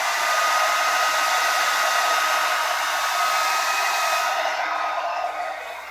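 Revlon handheld hair dryer running, a steady rush of blown air with a steady high whine from its motor; the sound drops quieter near the end.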